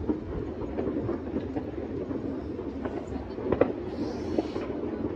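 Many fireworks and firecrackers going off across a town at once, a continuous rumbling crackle of overlapping pops and bangs. A sharper bang comes about three and a half seconds in, followed by a brief hiss.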